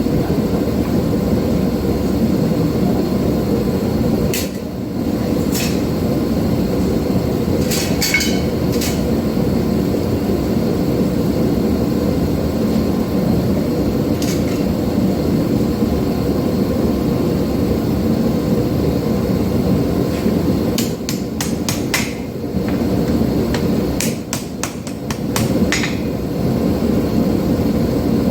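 Hand hammer striking hot 5160 steel on an anvil: scattered single blows, then a quicker run of strikes near the end. Under it the forge runs with a steady rushing noise.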